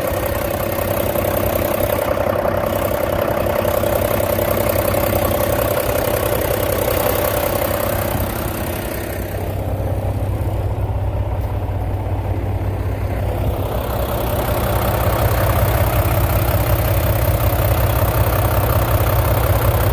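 Volvo D13 inline-six diesel engine of a semi truck idling steadily, with a steady whine that fades out about eight seconds in.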